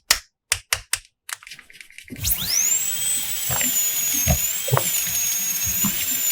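A few sharp plastic clicks, then about two seconds in a toy drill from a doctor playset starts whirring with a steady high whine that rises at its start. Light taps sound under the whine.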